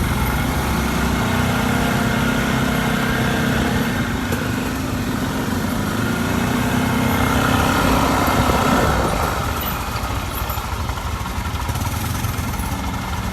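Quad bike engine running steadily, growing louder about eight seconds in and then easing off.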